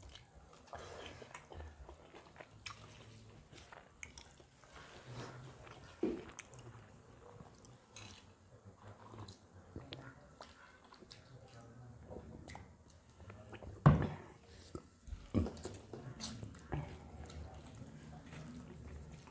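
Close-miked chewing and mouth smacks of people eating rice and curry with their hands. Fingers are heard mixing the food on steel plates, with scattered small clicks and a sharp knock a little over two thirds of the way through.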